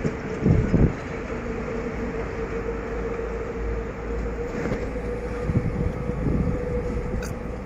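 Passenger train running across a railway bridge: a steady rumble with a held tone, broken by heavy knocks twice, once near the start and again past the middle.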